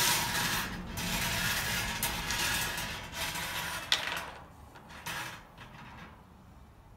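Numbered balls rattling and tumbling in a turning drawing cage, with a single sharp click about four seconds in. The rattle fades away over the last couple of seconds.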